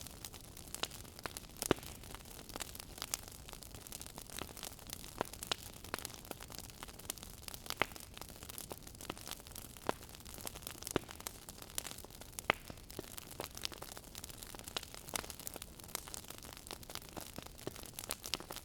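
Wood fire burning in a fireplace, crackling with a steady hiss and frequent irregular pops and snaps, a few sharper than the rest.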